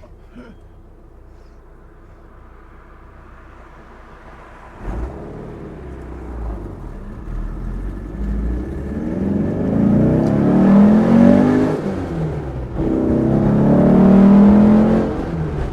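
Air-cooled flat-four engine of a 1967 Porsche 912, built out to 2.1 litres, pulling hard under full acceleration. After a few seconds of steady running it comes on load, and the engine note climbs steadily in pitch. It drops off briefly at a gear shift about two-thirds of the way through, then climbs again to a second shift near the end.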